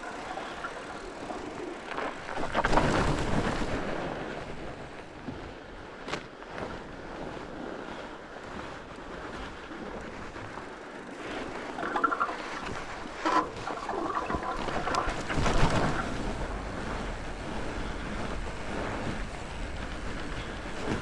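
Fat bike rolling down a singletrack trail: tyres rumbling over dirt and roots, with the bike rattling over bumps and wind buffeting the microphone. It swells louder twice, a few seconds in and again around fifteen seconds, with a burst of sharp rattles just before the second swell.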